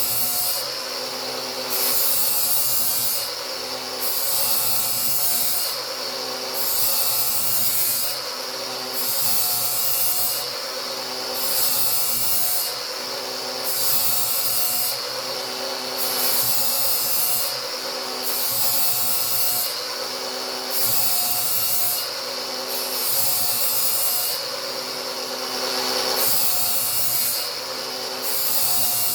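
Angle grinder running steadily while its disc grinds a new edge on a steel lawn mower blade. The grinding hiss swells and eases in repeated passes along the edge, about one every two seconds.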